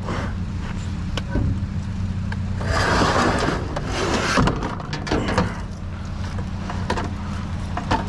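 Truck engine idling steadily, with scattered knocks and clicks and a brief rush of rustling noise about three seconds in.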